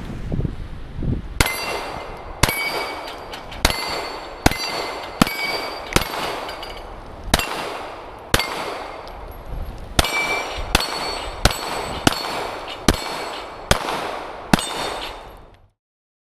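A steady string of about seventeen 9mm pistol shots from a Glock 17, each followed by the ringing ping of a steel target being hit. The string stops abruptly near the end.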